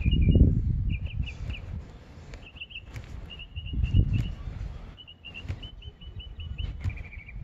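A songbird chirping in quick repeated series of short high notes, over low irregular rumbling that is loudest in the first second and again about four seconds in, with a few faint clicks.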